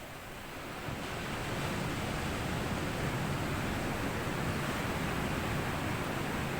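Sea waves washing up onto a sandy beach as a steady rush of water. The wash swells about a second in and stays up.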